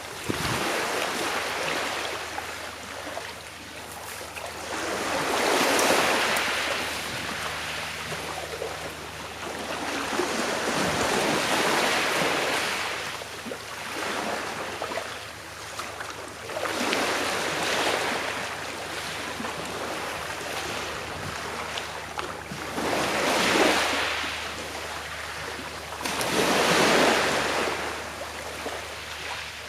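Sea waves washing onto the shore, the surf swelling and fading about every five to six seconds.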